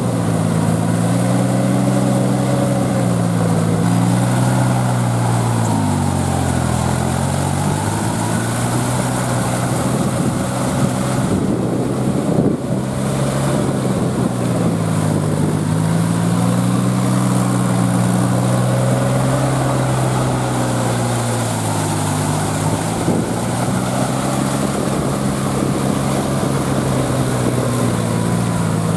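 Kubota L3408 tractor's three-cylinder diesel engine running under load as it drives a rotavator through a flooded paddy field. The engine note sags and recovers twice, about six seconds in and again about twenty seconds in.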